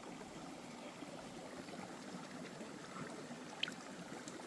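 Small mountain creek flowing steadily, with one brief faint tick about three and a half seconds in.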